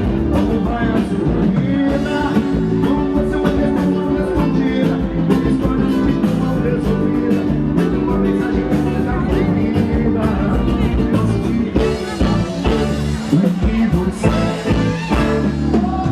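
Band music with guitar and drums, and a singing voice.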